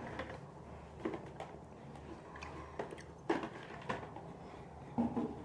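Someone chewing a Milk Dud, a chocolate-covered caramel that is hard to chew: soft, irregular mouth clicks and smacks.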